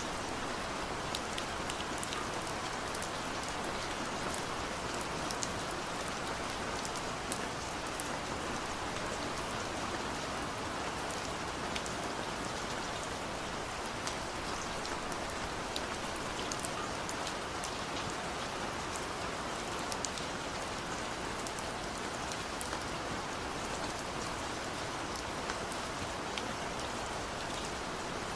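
Steady rain falling, with a dense hiss and many small individual drops ticking on a surface.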